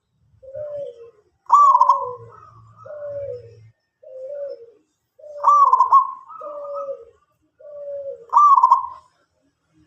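A zebra dove (perkutut) singing its cooing song: runs of soft, low, slightly falling coos, each ending in a louder, higher note that hooks upward. This happens three times, about every three seconds.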